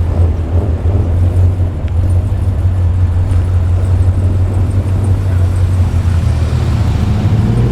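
V8 engine burbling at low revs as a car rolls by, a steady deep rumble.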